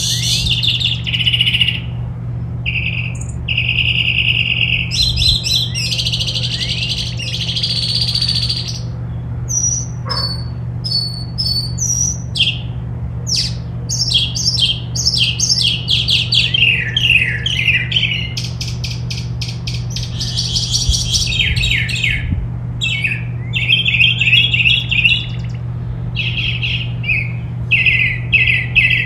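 Songbirds chirping and trilling in quick, overlapping phrases, high and busy throughout, over a steady low hum.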